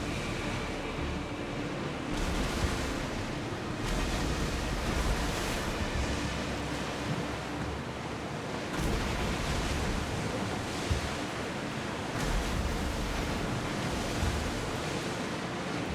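Sea waves and rushing water, with wind on the microphone, swelling in surges every few seconds.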